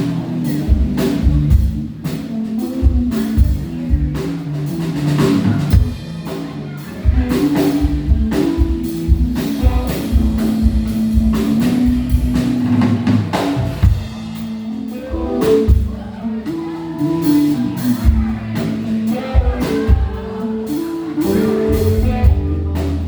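Live band music: a drum kit keeping a steady beat with rimshots, over bass and sustained keyboard chords.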